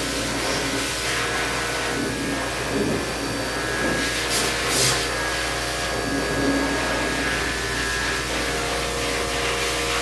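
Pet grooming blow dryer running steadily: rushing air with a steady motor whine, briefly hissing louder about four seconds in.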